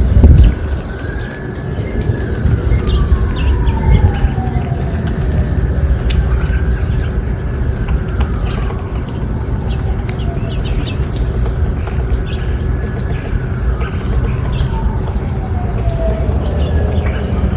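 A siren wailing slowly up and down, each rise and fall taking about four to five seconds, while small birds chirp briefly and often. A steady low rumble runs underneath, with a brief loud thump right at the start.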